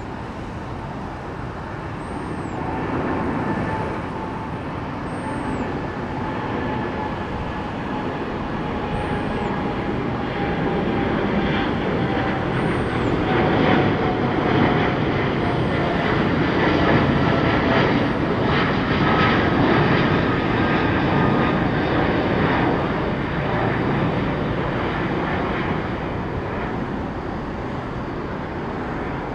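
Jet airliner's engines at takeoff power as it climbs out and passes, a loud rushing roar that builds to a peak about halfway through and then fades, with an engine whine that slowly falls in pitch as it goes by.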